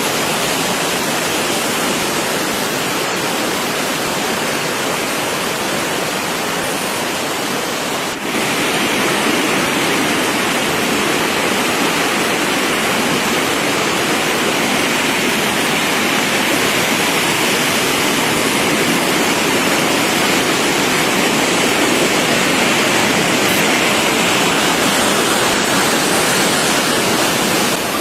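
Steady rush of fast-flowing floodwater. It dips briefly about eight seconds in, then runs on a little louder and hissier.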